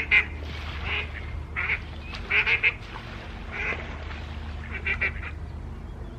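Ducks quacking, about six short calls roughly a second apart, over a steady low hum.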